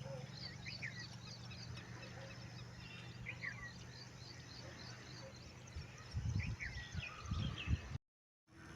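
Small birds chirping: a run of rapid high chirps with short downward-slurred calls repeated every second or so, over a low steady hum. Low rumbling bumps come in near the end, and then the sound cuts out briefly.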